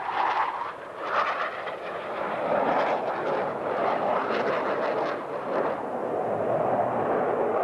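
Military jet aircraft flying past: a loud, rushing jet engine noise that swells and eases as the jets pass.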